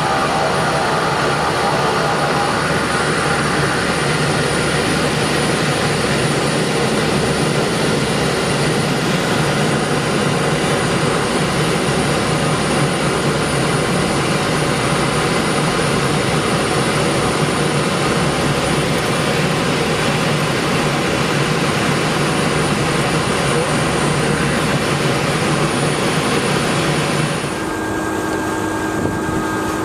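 A Cessna 210 Silver Eagle's single Rolls-Royce 250 turboprop and propeller running steadily, with airflow noise. About 27 seconds in the noise drops and thins out, leaving a steady hum.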